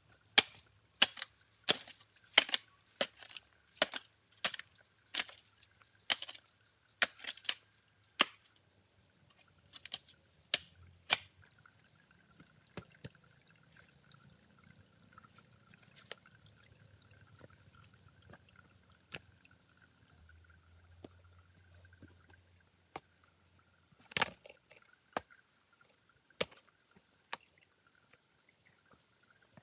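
A series of sharp knocks from work with hand tools, about one and a half strikes a second for the first ten seconds, then a few single strikes near the end.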